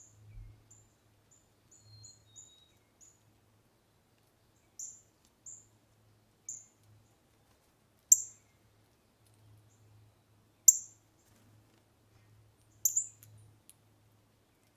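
Small birds at a feeder giving short, high chirps at irregular intervals, with three louder chirps in the second half.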